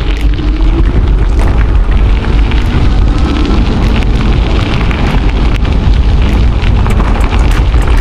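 Wind buffeting an action camera's microphone during a ride, a loud continuous low rumble with scattered clicks and knocks through it.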